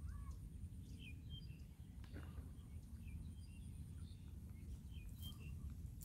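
Faint, scattered chirps from small birds over a steady low outdoor rumble.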